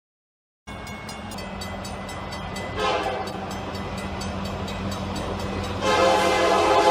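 Train horn sounding over a steady low rumble of an approaching train: a short blast about three seconds in, then a louder, long blast starting about six seconds in.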